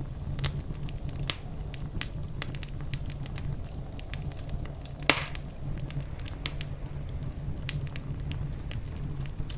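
Wood fire crackling in a fireplace: a steady low rumble of flames with scattered sharp pops, one louder pop about halfway through.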